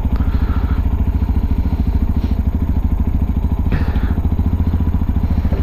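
Peda Tekken 250 motorcycle engine idling steadily at a red light, in an even, unchanging beat.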